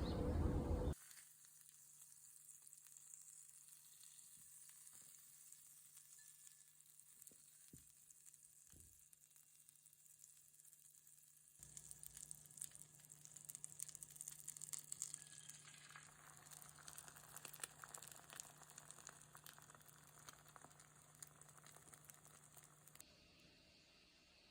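Faint sizzling and crackling of food frying in a pan, growing busier about halfway through and stopping shortly before the end, over a low steady hum.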